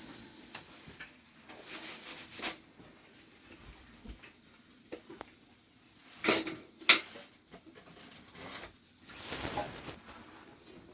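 Scattered knocks and clatter of objects being handled, loudest as two sharp knocks about six and seven seconds in, with brief rustling in between.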